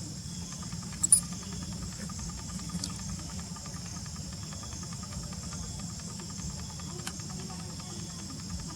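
Steady high-pitched insect chorus with a low background rumble, and one sharp click about a second in.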